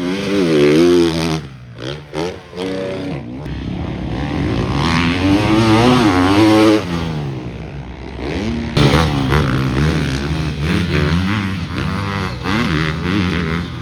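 Motocross bikes revving hard as they ride past on the track, the engine pitch climbing and dropping with each shift and throttle change. Several loud passes come about a second in, around six seconds and about nine seconds in.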